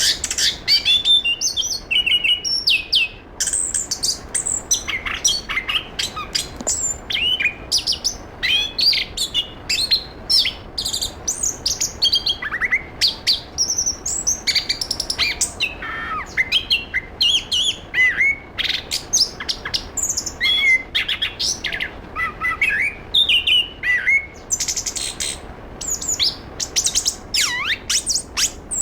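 Chestnut-capped thrush (anis kembang) singing a fast, continuous medley of sharp chips, short whistled sweeps and trills, with hardly a pause.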